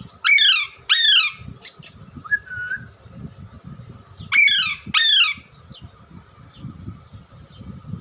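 A parrot squawking in short, loud calls, each falling in pitch. Two come in quick succession near the start, then a brief higher call and a small whistle, and another pair about four and a half seconds in.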